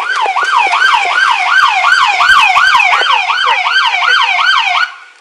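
Siren in a fast yelp, its pitch sweeping up and down about three times a second, then cutting off suddenly near the end.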